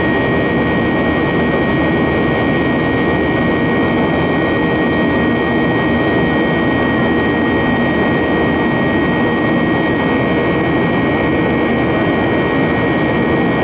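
Jet airliner cabin noise in flight: a steady, even rush of engine and airflow noise with a thin constant whine above it.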